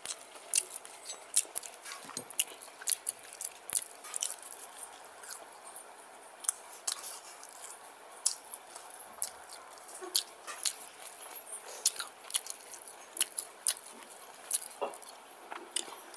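Close-miked chewing of puri with paneer curry: a man eating with his mouth open, giving many short, irregular clicks and smacks of the mouth.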